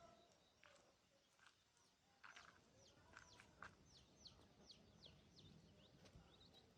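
Young chickens peeping: faint, repeated short high chirps that each fall quickly in pitch, thickening from about two seconds in.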